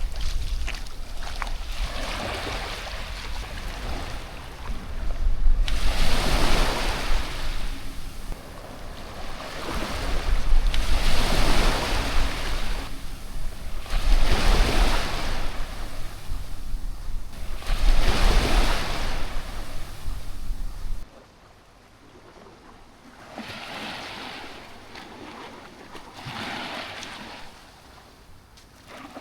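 Small sea waves washing onto the shore, one wash every three to four seconds, with wind rumbling on the microphone. About two-thirds of the way through, the wind rumble stops abruptly and the waves are quieter.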